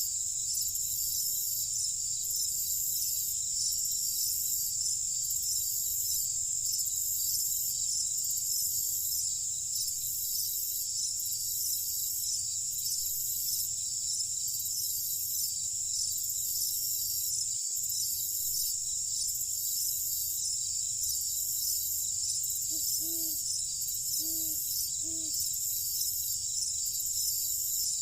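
Night insect chorus of crickets: a dense, steady high trill with an evenly pulsing upper layer, over a low rumble. Near the end, three short low calls sound about a second apart.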